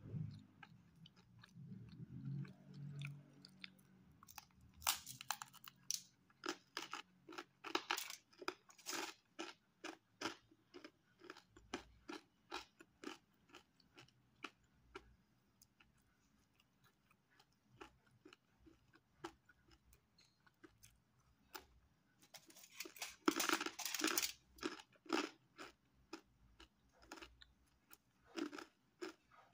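Crisp pizza crust being chewed close to the microphone: short crunches and mouth clicks about two to three a second, with a few louder bursts of crunching, the loudest about two-thirds of the way through.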